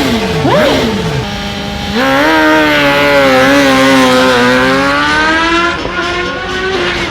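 Drag-race vehicle engine at high revs. The pitch falls and then swoops back up within the first second, and from about two seconds in a loud, steady engine note sags slightly and climbs again before easing off near the end.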